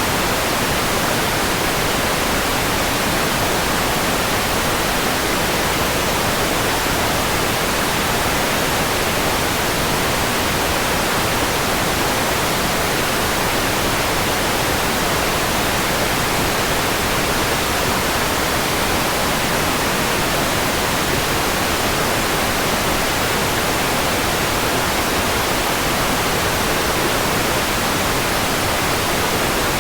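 Steady white noise: an even, unbroken hiss spread across all pitches, with no change in level.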